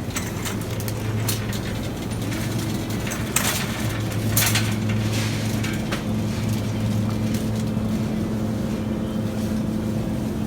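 Steady low machine hum of a supermarket, like refrigerated display cases and ventilation running, with a few short rustles and clicks over it.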